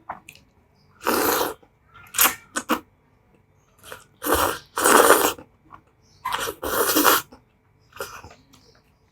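Spicy instant noodles slurped into the mouth in a series of loud, hissing slurps, about eight in all, with short pauses between them.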